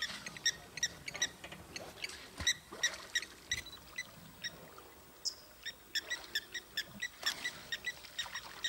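A bird calling in a rapid run of short, high squeaky notes, about four a second, with a few sharp clicks among them.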